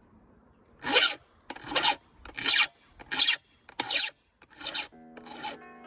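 Hand file rasping on a chainsaw chain, about seven even strokes about 0.7 s apart, filing the last tooth.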